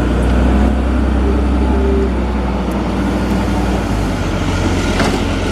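Engine of a nearby vehicle or machine running steadily, a loud low rumble.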